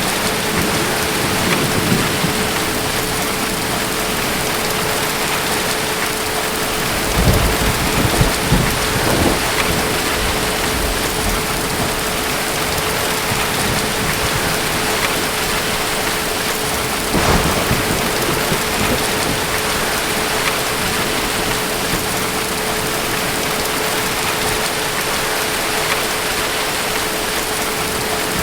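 Steady heavy rain with thunder: a low rumble rolls in about seven seconds in and lasts a couple of seconds, and a shorter rumble follows around the middle.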